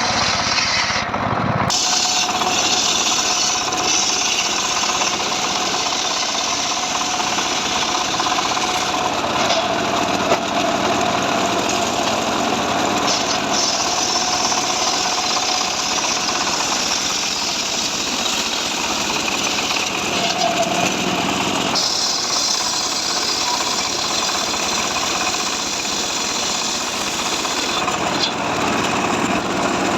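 Chainsaw running under load, cutting through dry mahogany.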